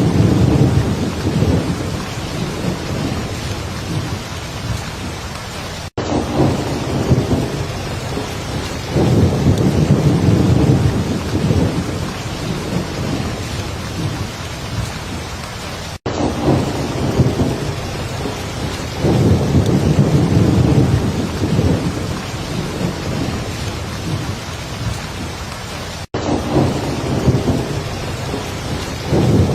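Heavy steady rain with low rolling thunder rumbles swelling and fading every few seconds. The sound cuts out for an instant about every ten seconds, three times.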